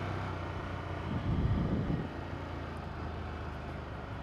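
Ducati Monster 797's air-cooled L-twin engine running steadily under way, with road and wind noise; a louder swell about a second in lasts about a second before it settles back.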